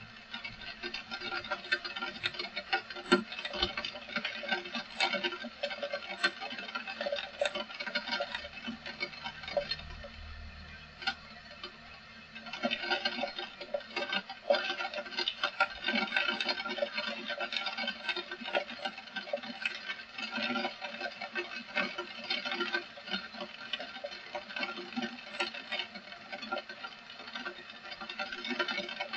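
Heavy rain pattering in dense, irregular drops. The patter eases for a few seconds about eight seconds in, while a low rumble sounds, then picks up again.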